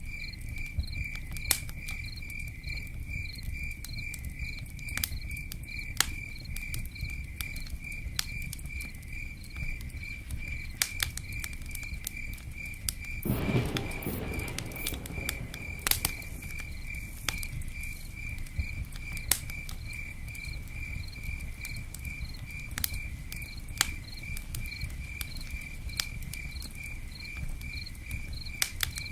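Campfire-and-rain ambience: scattered sharp crackles and ticks over a low steady rumble, with a high-pitched chirp pulsing evenly throughout. A brief louder rustling burst comes about halfway through.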